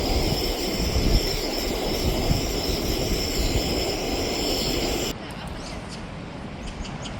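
Steady rush of sea surf and wind on the shore, cut off abruptly about five seconds in, after which comes a quieter stretch of background with faint clicks.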